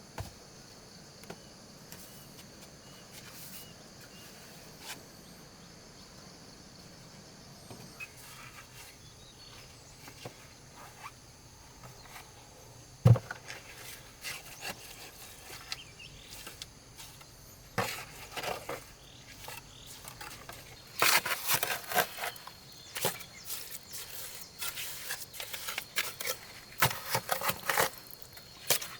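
Insects chirping steadily in the background, with scattered knocks, one sharp thump about midway, and a run of scraping and rustling handling noises in the last third.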